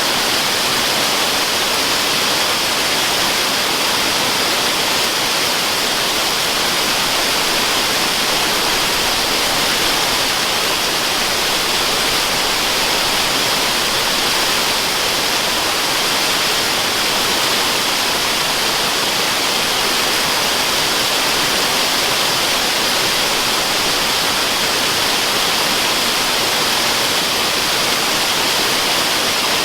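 Waterfall: a steady, even rush of falling water, strongest in the hiss range, without change.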